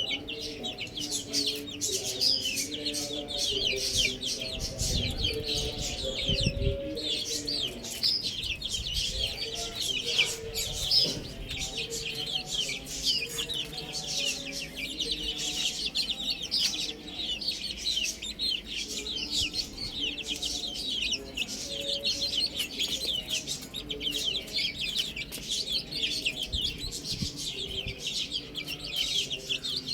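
A flock of chicks peeping without pause, a dense overlapping chorus of short, high, falling cheeps.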